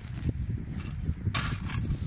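Hands and a digging tool working loose soil in a freshly dug hole: a steady low rumble of handling, with one short rustling scrape about one and a half seconds in.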